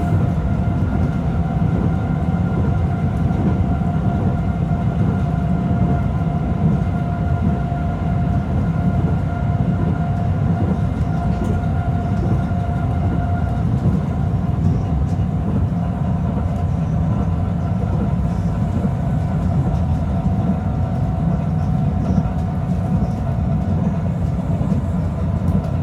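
Moving train: a steady, loud rumble of the carriages and wheels on the rails, with a steady whine over it.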